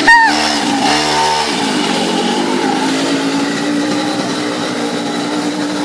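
Mini motorcycle's small petrol engine revving up and down twice, then running at a steady speed.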